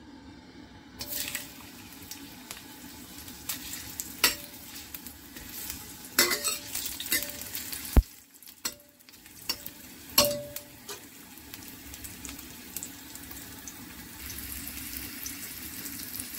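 Ginger slices sizzling in hot oil in a stainless steel wok, stirred with a metal spatula that scrapes and knocks against the pan several times. The sizzle starts about a second in and grows stronger near the end; the sharpest knock comes about eight seconds in.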